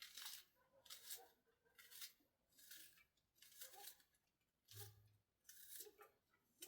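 Faint, short crisp cutting or crunching strokes, about one a second, against near silence.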